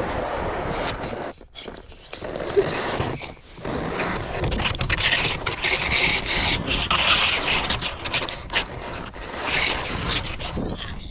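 Wind buffeting the microphone, with the scraping rush of a sled sliding over snow.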